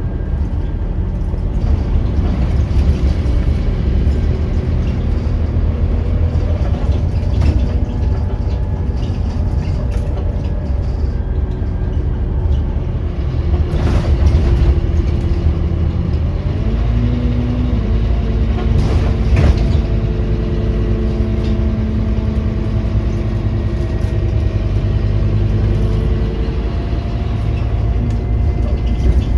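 Scania OmniCity single-deck bus's diesel engine and drivetrain running as the bus drives, heard from inside the passenger saloon as a steady low rumble whose engine note changes pitch partway through. A few sharp knocks and rattles from the bus body are mixed in.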